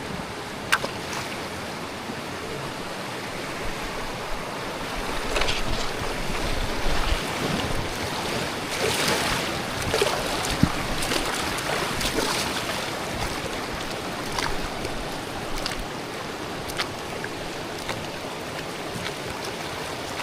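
Rushing river water around the tubes, a steady wash that swells louder for several seconds in the middle, with a few short sharp sounds over it.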